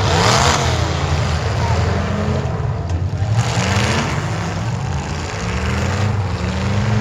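Demolition derby car engines running and revving, their pitch rising and falling several times, with bursts of broad noise over them.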